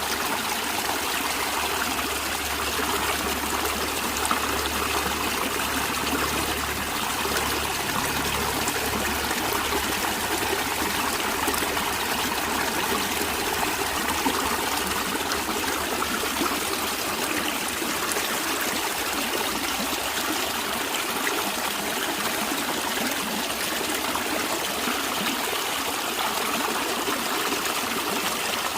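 Natural stream water flowing and trickling steadily.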